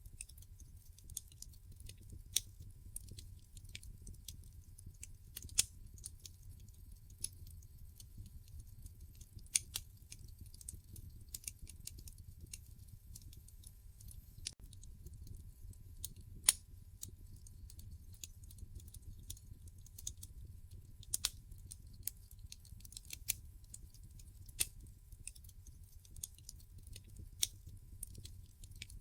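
Wood fire burning in a fireplace, crackling with irregular sharp pops and snaps, a few of them much louder than the rest, over a low steady rumble.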